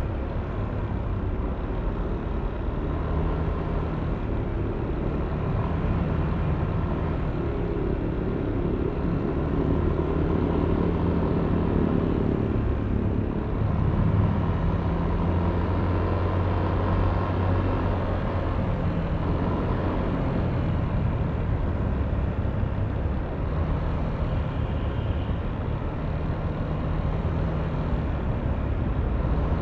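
Yamaha Aerox V3 scooter's 155 cc single-cylinder engine running under way, its note shifting up and down with the throttle, over road and traffic noise.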